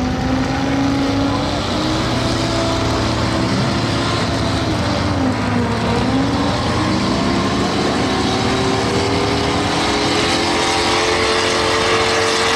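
Stock pickup truck engine running hard at high revs, its pitch dipping about halfway through and then climbing steadily toward the end.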